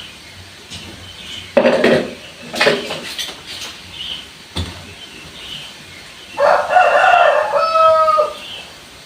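A rooster crows once, for about two seconds, near the end. Earlier come a few sharp knocks.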